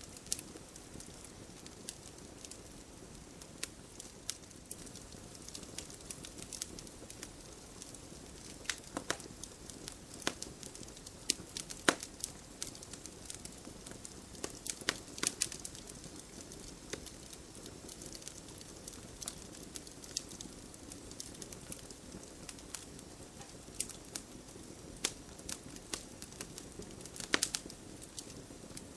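Wood campfire burning with a steady low hiss and irregular sharp crackles and pops, a few louder snaps scattered through.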